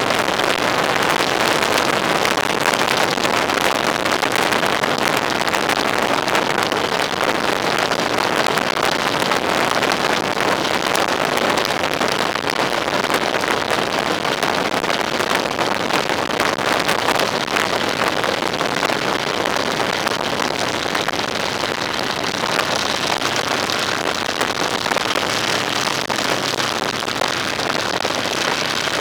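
Steady wind and road noise from a vehicle on the move. In the last several seconds the noise eases and a low engine hum shows through.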